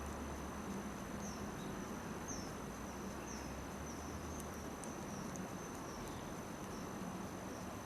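Insects chirping by a campfire: a thin, steady high-pitched trill with short chirps repeating about once a second, over a steady low hiss and a few faint crackles.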